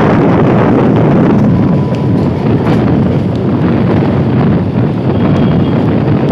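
Wind buffeting the microphone held out of a moving electric multiple unit (EMU) local train, over the steady running rumble of the train on the track. The noise is loud and even, with a few faint clicks.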